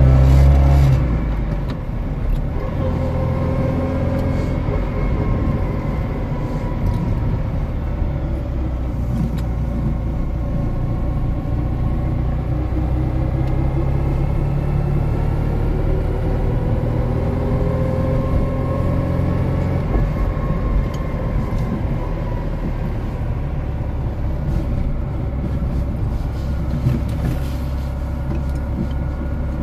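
1968 NSU Sport Prinz's rear-mounted air-cooled two-cylinder engine heard from inside the cabin while driving. It revs loudest at the start and drops back about a second and a half in, then runs on at moderate revs, its pitch rising and falling several times as the car accelerates and eases off.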